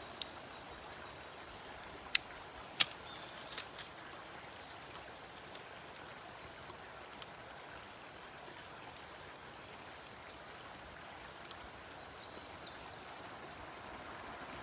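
Steady outdoor background hiss, broken by a few sharp knocks or clicks; the two loudest come about two and three seconds in, with fainter ones after.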